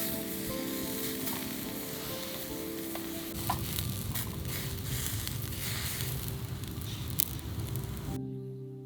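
Food sizzling as it cooks on high heat, with a few sharp pops and spits. The sizzling cuts off suddenly about 8 seconds in, leaving only soft background music.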